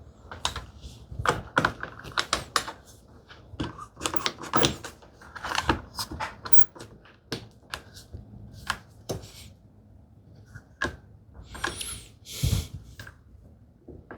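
Woodworking clamps being handled, set and tightened on a freshly glued joint between tambour slats and their bottom strip. The sound is irregular sharp clicks and knocks of metal and wood.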